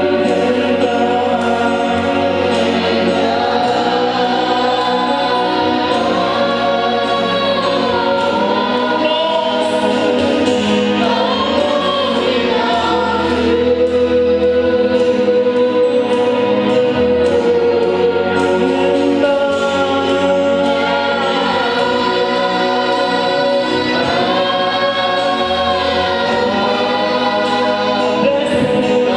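Gospel choir singing a worship song over steady instrumental accompaniment with a repeating bass line.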